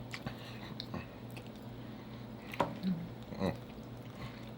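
A person chewing food, oxtail, close to the microphone: wet mouth sounds with a few short smacks, the clearest about two and a half and three and a half seconds in, over a steady low hum.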